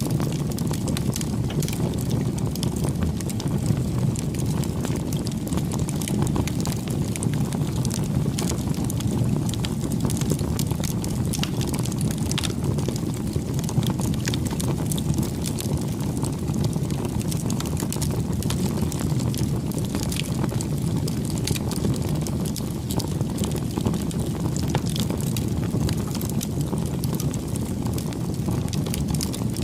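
Bonfire burning: a steady low rush of flame with frequent small crackles and pops from the burning wood.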